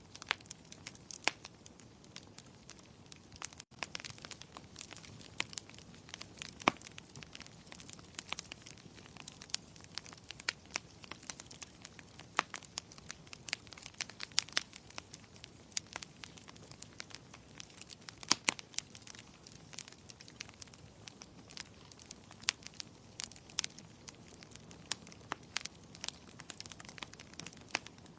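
Wood fire crackling in a fireplace: irregular sharp pops and snaps over a soft, steady hiss of burning. The sound drops out for a moment about four seconds in.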